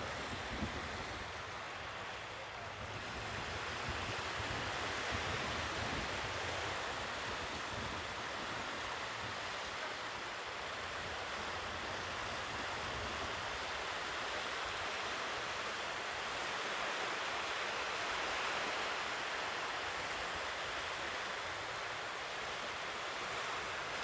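Sea waves washing on the shore: a steady rushing surf that swells and eases, rising a little about four seconds in.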